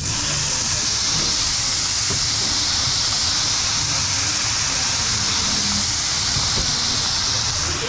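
Fried rice and shredded vegetables sizzling on a hot steel flat-top griddle: a steady hiss with steam rising as liquid is squeezed onto the food from a squeeze bottle. The hiss drops away just before the end.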